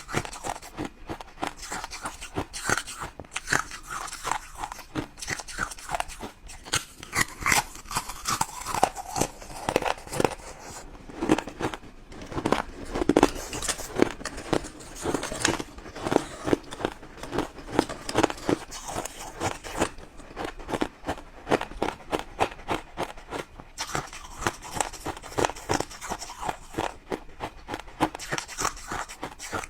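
Ice being bitten and chewed close to the microphone: a quick, irregular run of loud crunches.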